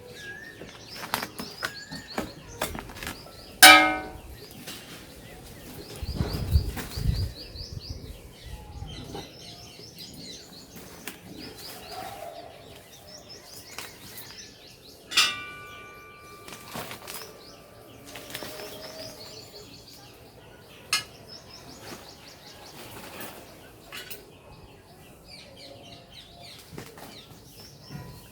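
Scattered knocks, rustles and scrapes of handling a plant pot and potting soil, with two sharp clanks that ring on, about four seconds in and about fifteen seconds in, and a low rumble around six to seven seconds. Small birds chirp repeatedly in the background.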